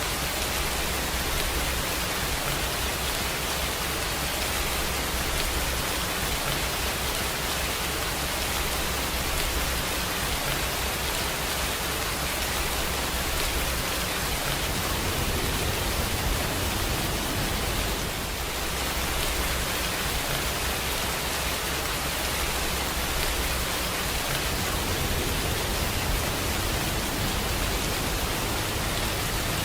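Steady rainfall: an even, dense hiss, dipping slightly for a moment about eighteen seconds in.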